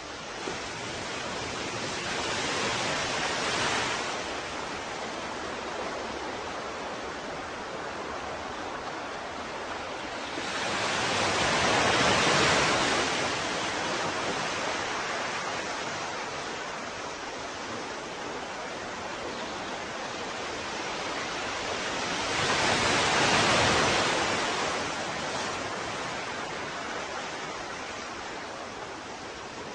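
Ocean surf: a steady wash of water with waves swelling louder and falling away three times, roughly every ten seconds.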